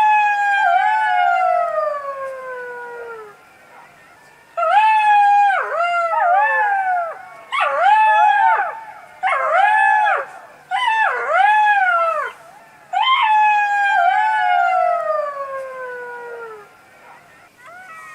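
Jackal howling: a long wail that falls in pitch, then a run of about six short wailing calls that rise and fall, then another long falling wail near the end.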